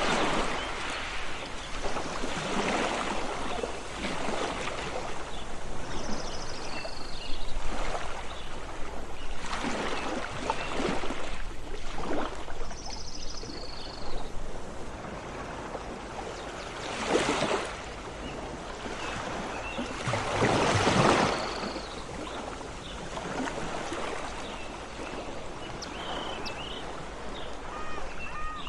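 Sea waves washing in, in repeated surges a few seconds apart. Short high bird chirps sound over them now and then.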